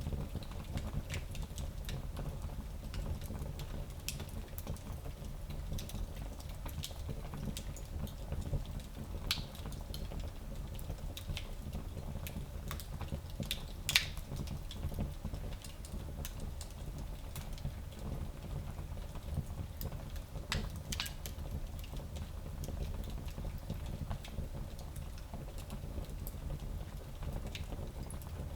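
Wood fire burning in a small fireplace, crackling with scattered pops over a steady low rumble; one pop about halfway through is much louder than the rest.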